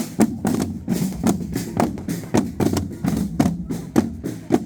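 Procession drums beating a steady march rhythm, about three strokes a second.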